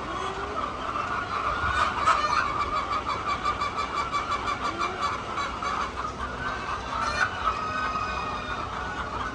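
A flock of hens clucking, many voices overlapping into a continuous chatter, with a fast, even ticking through the middle.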